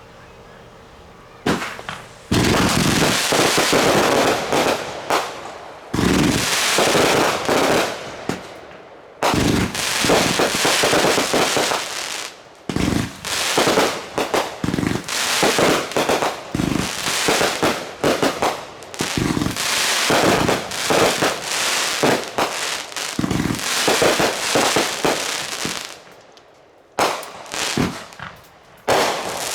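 Consumer fireworks going off in a long, dense barrage of sharp bangs and crackling, starting a second or two in, with a brief lull near the end before more bursts.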